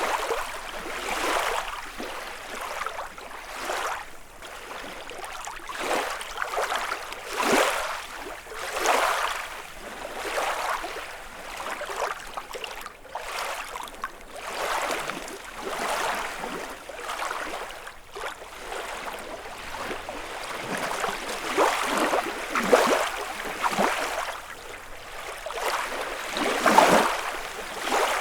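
Small lake waves lapping and splashing against the shore, in uneven surges every second or two.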